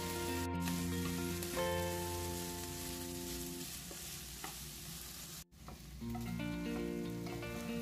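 Chicken and diced vegetables sizzling in a non-stick frying pan as they are stirred with a plastic spatula, over background music. The sizzling cuts off abruptly about five and a half seconds in, and the music carries on.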